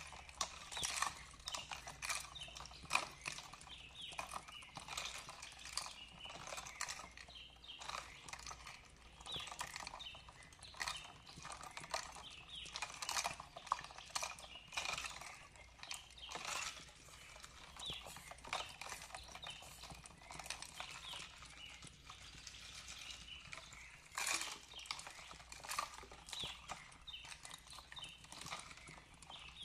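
Wood fire crackling, with irregular sharp pops and snaps throughout, and birds chirping softly in the background.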